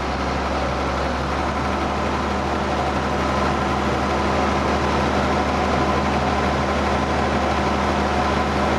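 Ford TW tractor's diesel engine running steadily, slowly growing a little louder.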